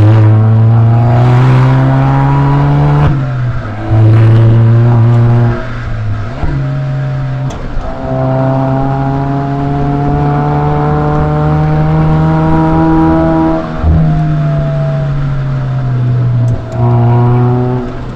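Exhaust note of a Suzuki Swift Sport ZC33S's turbocharged 1.4-litre four-cylinder through a SACLAM aftermarket muffler, heard from outside the car. The revs climb, break off sharply about three seconds in and again later as at gear changes, climb again, then ease down before picking up near the end.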